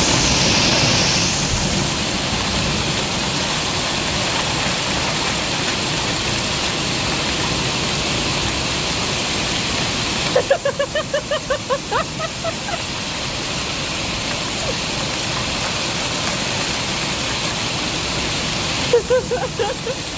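Heavy hail and rain coming down, a steady dense hiss of stones and water striking the ground. It cuts off suddenly about halfway through and again near the end, and each time a person's voice is heard in quick short notes.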